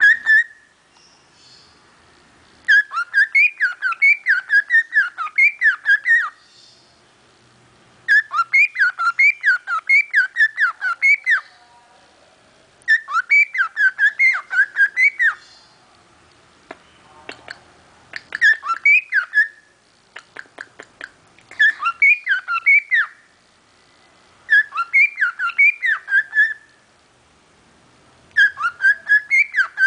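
A pet parrot whistling in repeated bursts of quick rising-and-falling notes, each burst two to three seconds long with short pauses between. A run of faint clicks comes in the middle.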